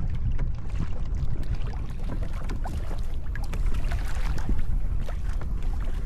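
Wind buffeting the microphone in a low rumble, with small splashes and water lapping against a kayak's hull.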